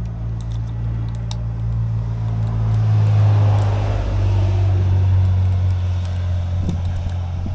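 Chevrolet 350 small-block V8 running steadily at idle, a low even drone with a hissing rush that swells and fades midway.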